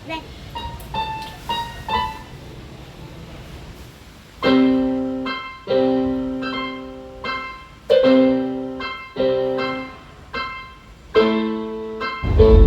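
Background piano music. Soft single notes give way to a series of struck chords, each fading out, from about four seconds in.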